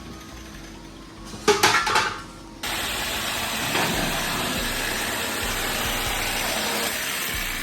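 Several sharp metallic clanks in quick succession, then a steady, even mechanical noise that starts abruptly, consistent with exhaust work in a muffler shop.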